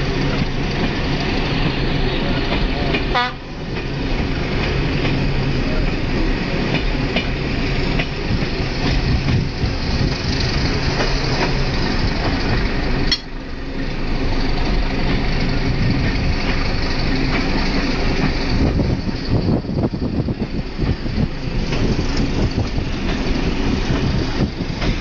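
Train running along the track, heard from aboard the moving train: a steady noise of the wheels and carriages, which dips briefly twice.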